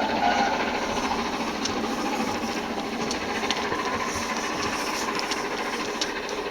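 A steam-hauled train rolling past on the rails: a steady rushing noise of wheels on track with a few sharp clicks, slowly fading as it moves away.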